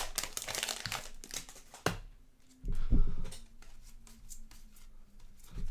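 Basketball trading cards and their plastic wrapping being handled, with crinkling and light rustling clicks and a soft thump about three seconds in.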